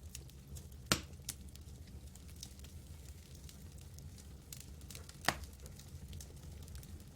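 Campfire crackling: scattered small snaps, with two loud wood pops about a second in and about five seconds in, over a low steady rumble.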